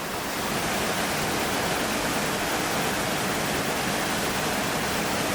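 Steady rushing of falling or flowing water, a broad even hiss that swells slightly in the first second and then holds level.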